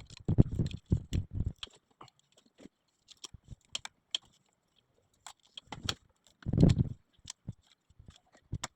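Scattered metallic clicks and clunks of a tool working the belt tensioner as the serpentine belt is pulled off the pulleys of a Land Rover TD5 engine. There is a cluster of heavier knocks in the first second and another about six and a half seconds in.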